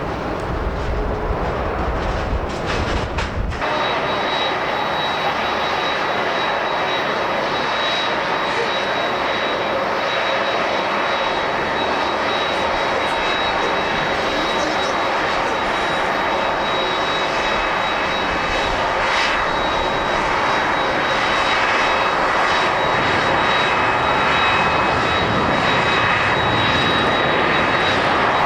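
Jet airliner engines on landing approach: a steady rush of engine noise with a thin high whine, growing slightly louder toward the end. It is preceded by about three seconds of low rumble that cuts off abruptly.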